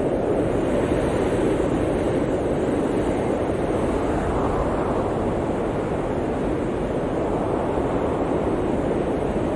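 Blizzard wind blowing steadily, a dense rushing noise that swells a little about halfway through.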